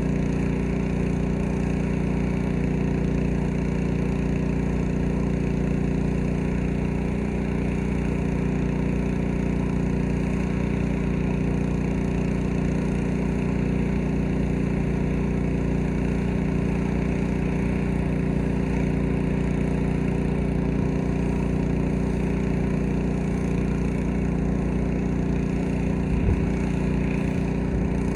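Gas-engine pressure washer running steadily at a constant speed, with the hiss of its spray over the engine note.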